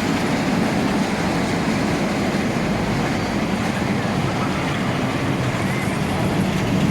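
Train running, a steady rumble without a break.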